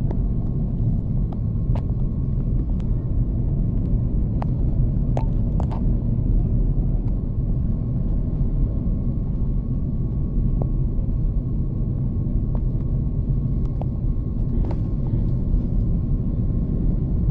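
Steady low rumble of an Airbus A330-300's engines and airflow heard inside the cabin, with a faint steady whine and a few light ticks.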